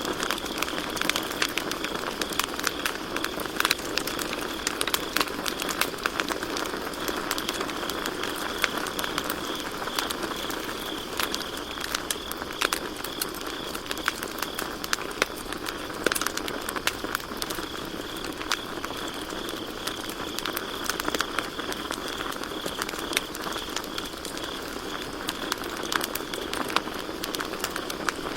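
Campfire crackling, with many sharp pops and snaps at irregular moments, over a steady high trill of crickets chirping.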